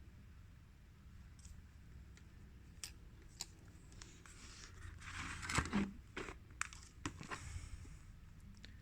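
Faint handling of small parts of a CD player mechanism: scattered light clicks, with a short stretch of rustling and scraping about five seconds in.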